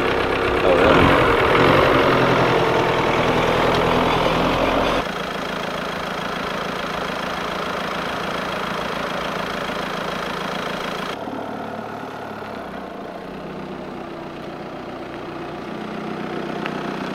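Audi A5's engine running at idle, a steady hum. It drops suddenly to a quieter level about five seconds in, and again about eleven seconds in.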